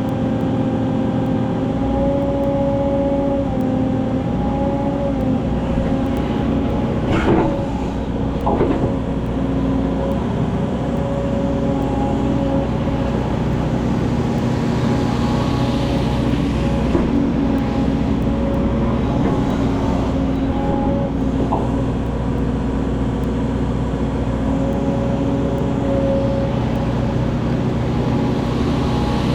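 Excavator's diesel engine running steadily under work, its pitch shifting slightly, with two brief knocks about a quarter of the way in.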